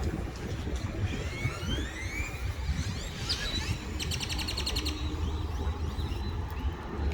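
Small birds chirping: several quick upward-sweeping calls, then a fast trill of about ten notes in a second, about four seconds in, over a steady low rumble.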